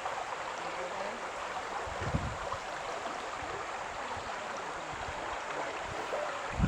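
Steady rushing of water at the lake's edge, with a few brief low bumps, one about two seconds in.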